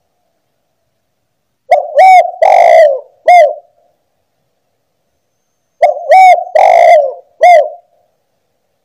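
Spotted dove (tekukur) cooing: two loud phrases about four seconds apart, each a short coo, a hooked coo, a longer rough coo and a final hooked coo.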